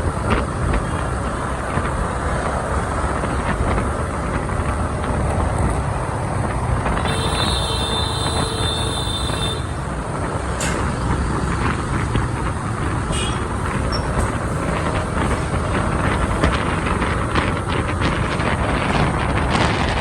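Road and wind noise from riding a motorbike through busy city traffic, with engines and tyres running steadily. A steady high-pitched tone sounds for about two and a half seconds near the middle.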